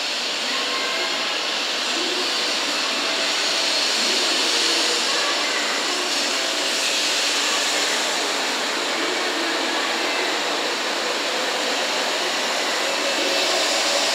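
JR West 500 series shinkansen running slowly through the station as it pulls in to the platform: a steady rushing hiss that grows slightly louder as the cars slide past.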